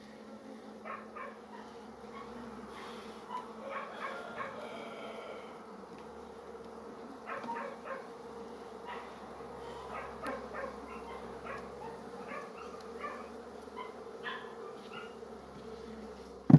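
Honeybees buzzing around an open hive, a steady low hum, with short sharp sounds at irregular intervals over it.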